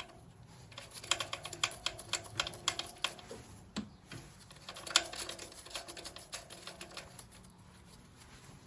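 Hand ratchet clicking in quick, uneven runs while nuts are run down onto their studs, pausing briefly midway with one sharper click about five seconds in; the clicking stops shortly before the end.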